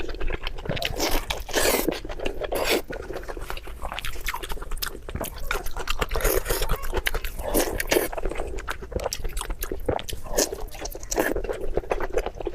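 A person chewing and biting food close to the microphone: irregular crunches and wet mouth sounds, one after another with no pause.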